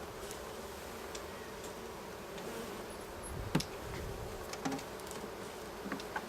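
Honeybees buzzing steadily in a mass around an opened hive, with a few light clicks and knocks, the loudest about three and a half seconds in.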